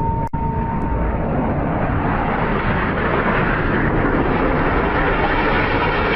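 Jet aircraft engine noise, a steady loud rush with no let-up, with a sharp click just after it begins.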